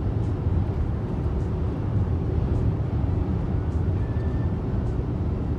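Strong wind buffeting the microphone: a steady, loud, low rumble that gusts unevenly throughout.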